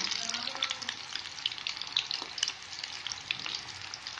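Egg-coated meatballs (koftas) frying in hot ghee in a wok: a dense, steady sizzle of many small crackles and pops.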